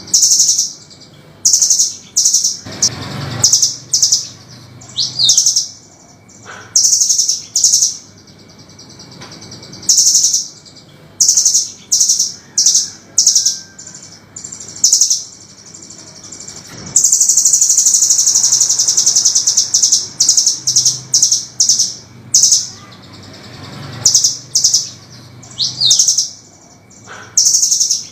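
Velvet-fronted nuthatch calling: short bursts of rapid, sharp, harsh high chips repeated over and over, with one longer unbroken rattling series about two-thirds of the way through.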